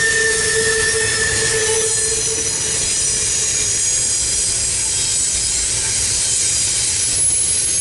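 CSX double-stack intermodal train's loaded well cars rolling past, with the steady rumble of steel wheels on rail and high-pitched wheel squeal. A pair of lower squeal tones fades out about two and a half seconds in, while higher squealing tones carry on.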